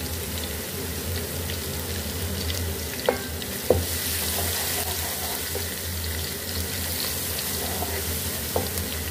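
Crushed garlic and green chillies sizzling in hot oil with fried onions in a metal pan, a steady hiss that grows a little louder around the middle. A few sharp clicks sound against the pan, twice around three to four seconds in and once near the end, over a steady low hum.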